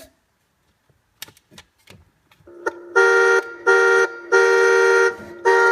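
A 12 volt kids' ride-on toy car's electronic horn sounding through its small speaker: four short honks in a row, starting about three seconds in, the third the longest. A few light clicks come before them.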